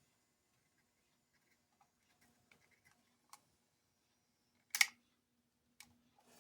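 A few small clicks and taps from handling a plastic toy's parts while soldering its wires, the loudest a short click just before five seconds in. A faint steady hum lies under them.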